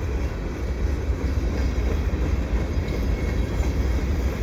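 Freight train's loaded flat cars rolling past, a steady rumble of steel wheels on rail.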